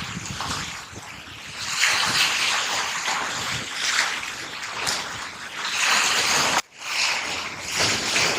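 Surf washing on the shore in heavy rain, a hissing wash that swells and fades every couple of seconds. It cuts out abruptly for a moment about two-thirds of the way through.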